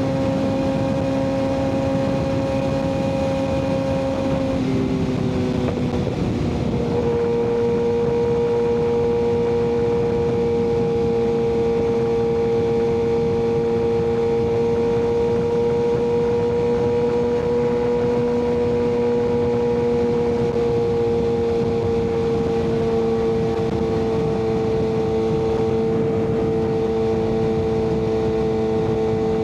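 Kawasaki ZX-6R inline-four running through an M4 aftermarket exhaust at a steady cruising engine speed. Its note steps down in pitch about five to seven seconds in, then holds steady, over a rushing haze of wind and road noise.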